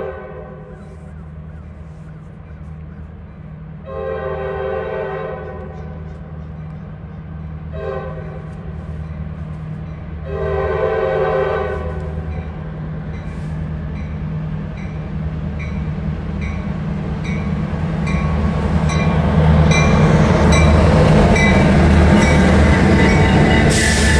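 A Norfolk Southern diesel freight locomotive's horn sounds the grade-crossing signal as the train approaches: the end of one long blast, then a long, a short and a final long blast. The locomotive's engine rumble then swells as it passes close, followed by the rolling of loaded hopper cars, with a crossing bell ringing in quick, even strokes.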